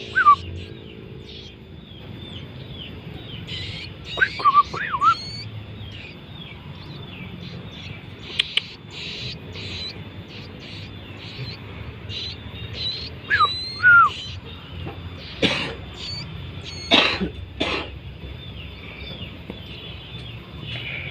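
Young ciblek gunung (a prinia) chirping: many short, high calls one after another, with a few louder sliding notes among them.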